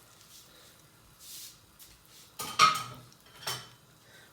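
Chopsticks knocking against a frying pan: a sharp clink with a brief ring about two and a half seconds in, then a second, lighter knock about a second later, over a quiet background.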